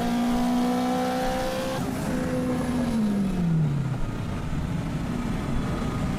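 Street-race car engines at high revs, the engine note held steady and climbing slightly, then falling sharply about three seconds in as it passes or backs off, giving way to a rushing road and wind noise.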